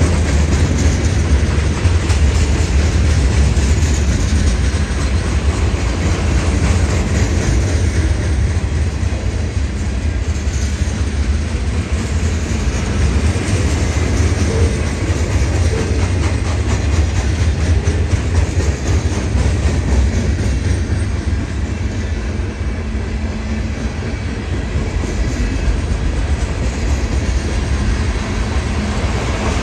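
Freight train rolling past, a steady loud rumble of railcars and wheels on the rails that eases a little after about twenty seconds.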